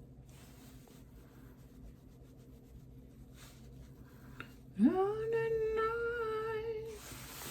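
A woman humming: a low murmur of room tone, then about five seconds in one long hummed note that slides up and holds with a slight waver for about two seconds.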